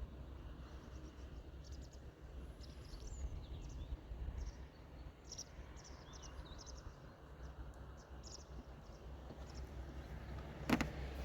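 Outdoor morning ambience: small birds chirping in short high calls over a steady low rumble, with one sharp click near the end.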